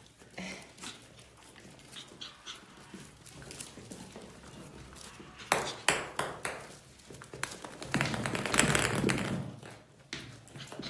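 Biewer terrier puppies moving about, with a run of sharp clicks and knocks about halfway through, then a louder scuffling noise lasting a second or so near the end.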